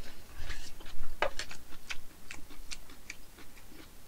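A person chewing a mouthful of food with wet mouth clicks and smacks, a string of sharp, irregularly spaced clicks.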